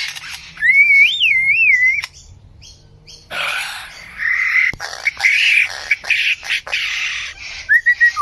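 A bird calling in a varied run: a clear warbling whistle that rises and falls, then after a short pause a string of harsh, rasping calls, and a brief whistle again near the end.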